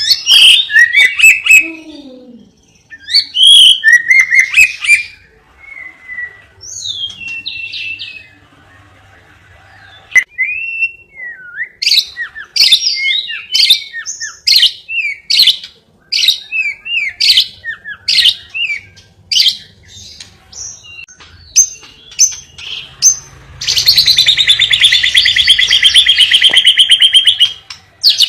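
A lovebird singing: sharp chirps and short warbled phrases, then a run of quick separate notes, and about 24 s in a long, very rapid trill held for about four seconds.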